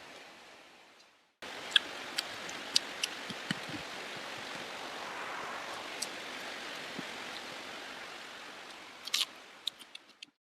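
Steady hiss of rain, with scattered sharp clicks and smacks of eating close to the microphone, a cluster of them near the end. The sound cuts out briefly about a second in and stops abruptly near the end.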